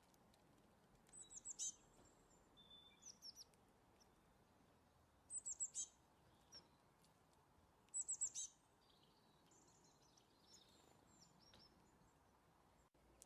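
Songbird singing: three short bursts of quick, high, falling notes about four seconds apart, with softer chirps between them, over a faint steady hiss.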